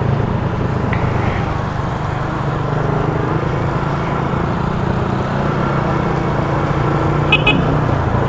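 Motorcycle engine running at a steady speed while riding, with a continuous rush of wind and road noise. A brief double beep sounds near the end.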